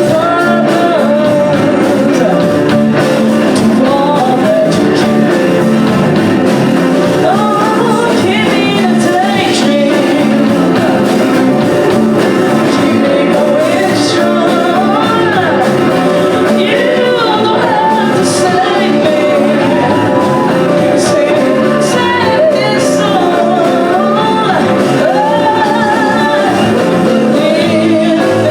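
A live band playing a soul-rock cover, with a lead singer's voice over the instruments.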